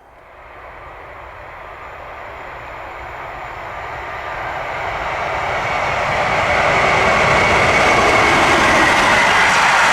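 A train approaching, its noise growing steadily louder for about six seconds and then holding loud.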